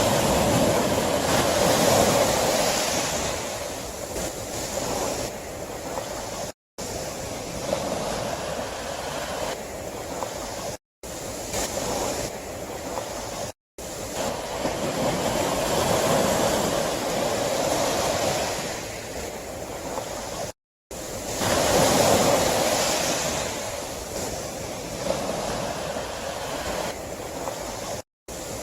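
Sea waves breaking and washing ashore, a steady rush that swells with each wave three or four times, cut by several brief gaps of silence.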